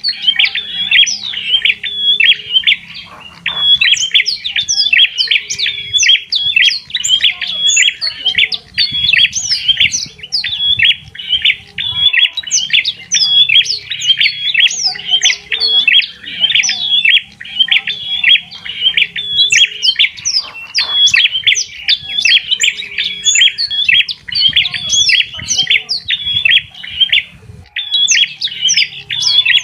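Small birds chirping and twittering without pause, many quick overlapping calls each second, with sharp upward-sweeping notes.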